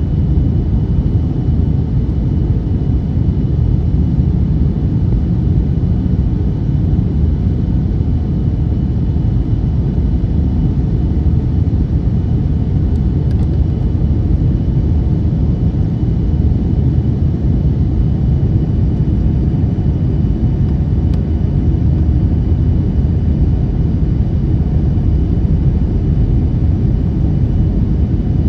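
Steady low rumble of an airliner's engines and rushing air heard from inside the cabin during the approach to landing, with a faint steady high whine and a couple of faint clicks around the middle.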